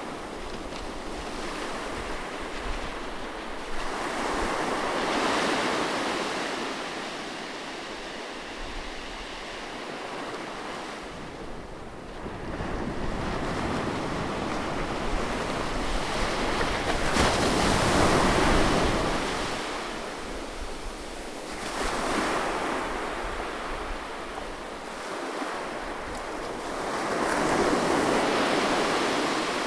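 Gentle sea waves breaking and washing up on a beach, swelling and ebbing every few seconds, with the loudest surge about eighteen seconds in.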